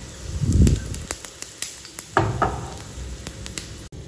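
Egg-coated, cheese-filled sandwich-bread pockets sizzling in a little oil in a nonstick frying pan, with scattered small pops and two dull knocks, about half a second in and about two seconds in.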